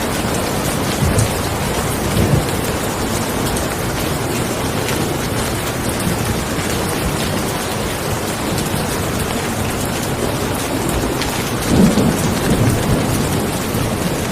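Steady rain falling, an even hiss with fine patter, with brief deep rumbles about a second and two seconds in and a stronger low swell near the end.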